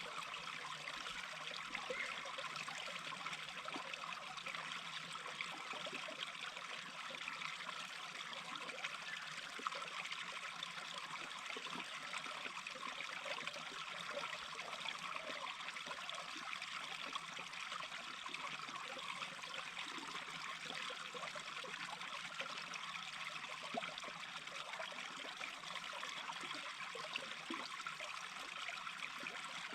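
Small brook babbling and trickling steadily, an even rush of water with many small splashes and flickers.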